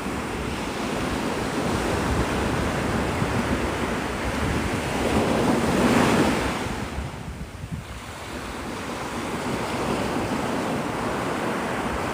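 Surf breaking on the beach, with wind on the microphone. The wash swells to its loudest about six seconds in, then drops away sharply before building again.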